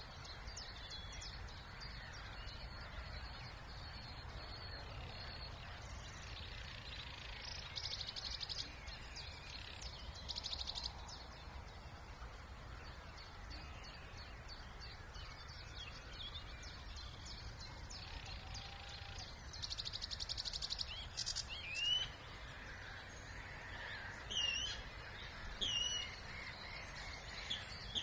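Wild birds singing in a spring wetland chorus: a steady background of high notes, with several dense, rapid trills and a few louder sharp up-slurred notes in the second half. Underneath is a steady low rumble of background noise.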